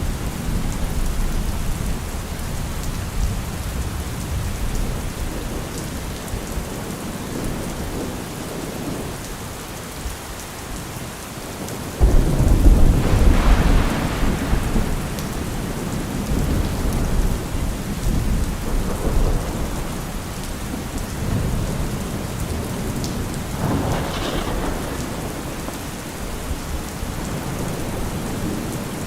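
Heavy rain falling steadily, with a deep rumble in the low end. About twelve seconds in a sudden loud low rumble swells for a couple of seconds, and a smaller surge comes around twenty-four seconds.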